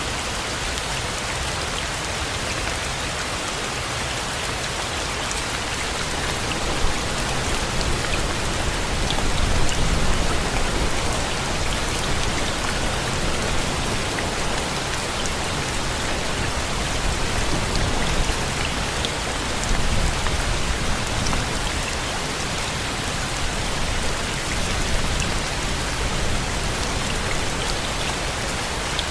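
Steady rain falling, a dense hiss with scattered fine drop ticks, and a low rumble that swells up twice, about a third and two-thirds of the way through.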